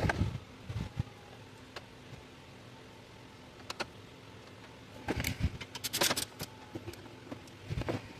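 Scattered metallic clinks and taps of hand tools and metal engine parts being handled during the water-pump and bracket refit, with a quick run of clinks about five to six and a half seconds in.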